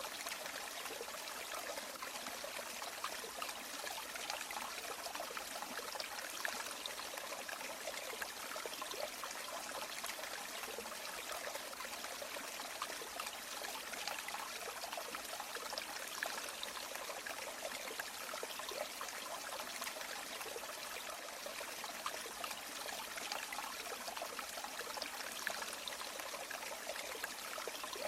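River water flowing steadily, a continuous rushing with fine trickling and splashing over stones.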